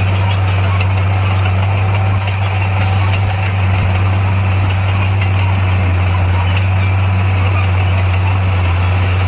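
Heavy earthmoving machine's diesel engine running steadily with a loud, even low drone.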